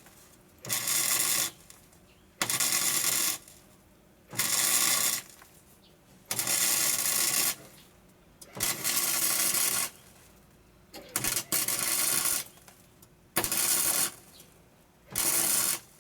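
MIG welder stitch-welding sheet steel on a car's side sill in short bursts: about eight crackling runs of roughly a second each, with brief pauses between them.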